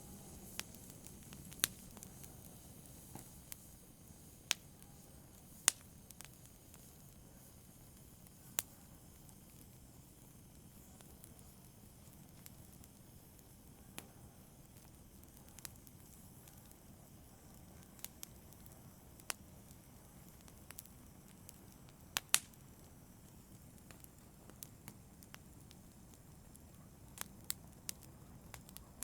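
Wood fire in a fireplace crackling: irregular sharp pops and snaps, a few louder than the rest, over a soft steady hiss.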